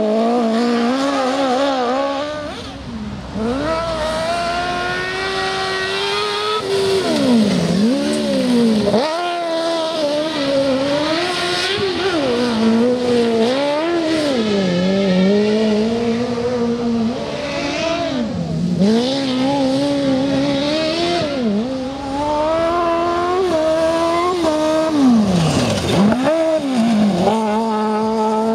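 Suzuki GSX-R motorcycle engine of a mini sand rail, an inline-four, revving up and falling back again and again as the buggy is driven hard off-road, its pitch rising and dropping every second or two.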